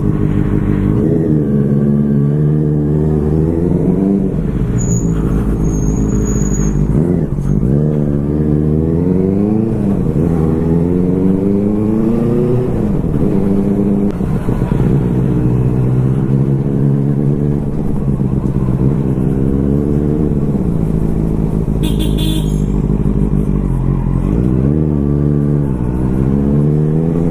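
Motorcycle engine under way, revving up through the gears again and again. Each time the pitch rises steadily, then drops back as it shifts or eases off.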